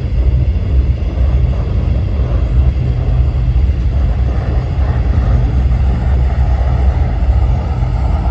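Propane roofing torch burning steadily with a loud, even roar, heating torch-down roofing for a patch.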